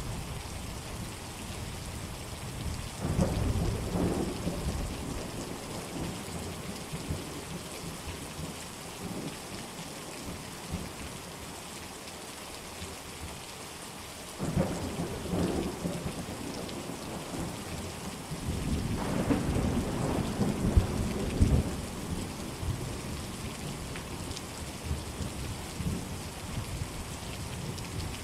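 Steady rain with rolls of thunder: a rumble about three seconds in, another about fourteen seconds in, and a longer, louder roll around twenty seconds in.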